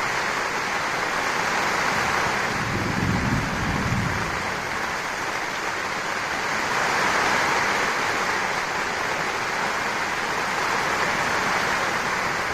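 Steady heavy rain falling on the rainforest, with a brief low rumble about three seconds in.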